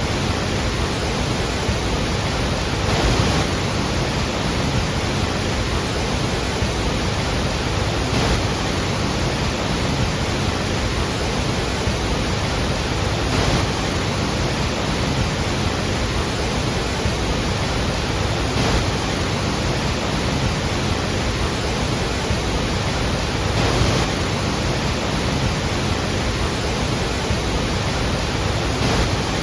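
Iguazú Falls' water falling, a steady, dense rush of noise with faint swells about every five seconds.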